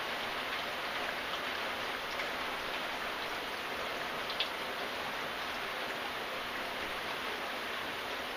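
Steady rain falling, an even hiss of many drops with no gaps, and one sharper single tick about halfway through.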